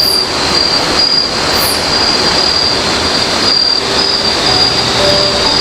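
Loud night chorus of forest insects: a steady high whine over a dense buzzing hiss, with short lower calls coming in during the second half.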